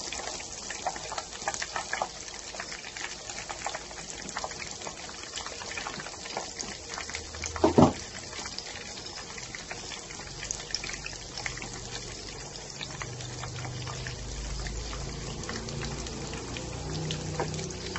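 Breaded pork chop shallow-frying in oil over a low flame: a steady sizzle full of fine crackles. One loud dull knock about eight seconds in.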